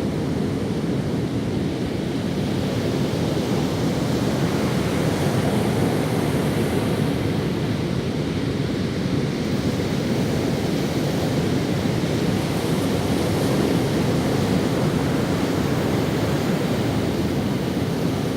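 Ocean waves breaking on a sandy beach, a steady low wash of surf that swells gently and eases without any distinct crash.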